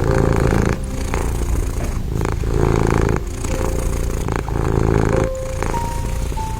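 Domestic cat purring, the buzzing purr swelling and easing in cycles about once a second with each breath in and out.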